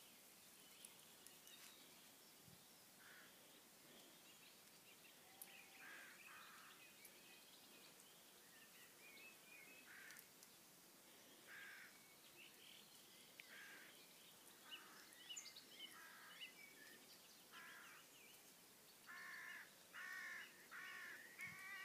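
Faint distant bird calls: scattered short calls throughout, then a run of five calls in quick succession near the end.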